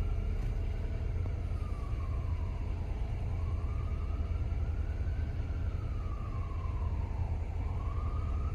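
BMW 528i engine idling with a steady low rumble, while a siren wails, rising and falling slowly about every three seconds.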